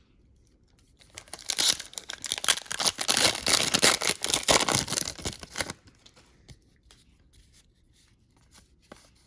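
A trading-card pack wrapper being torn open and crinkled: a dense, crackly rustle lasting about four seconds, then a few faint ticks.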